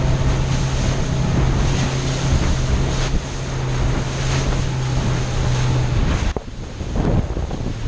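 Boat engine running with a steady low hum, under wind buffeting the microphone and the noise of water. The hum drops away about six seconds in and returns near the end.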